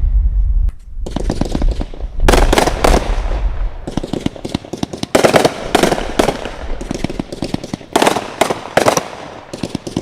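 Finale volleys from consumer firework cakes: rapid, overlapping bangs and crackling reports fired in dense clusters, with a deep rumble under the first few seconds.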